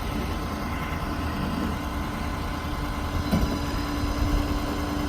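Ford 6.7-litre Power Stroke V8 diesel of a bucket truck idling with the PTO engaged to drive the boom hydraulics: a steady low rumble with a constant hum, and a single click about three seconds in.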